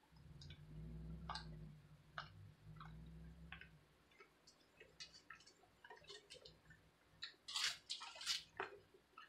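Quiet chewing of crunchy pan-fried ramen noodles, with small crunches and mouth clicks and a low hum in the first few seconds. Near the end, a cluster of louder clicks as chopsticks pick at the noodles on the foil-covered plate.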